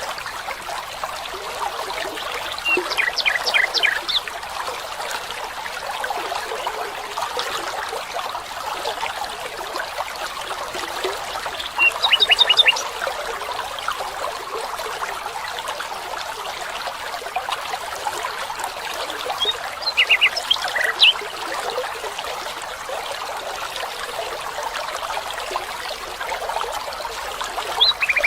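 A small stream running steadily. Birds call over it every several seconds, each call a short, quick run of notes.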